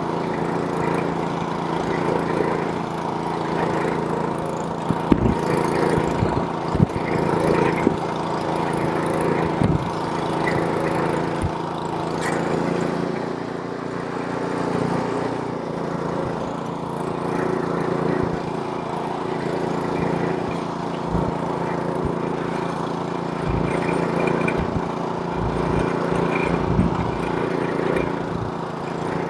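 Gas snowblower's small engine running steadily under load while clearing snow, with occasional low thumps and knocks from the machine working through the snow.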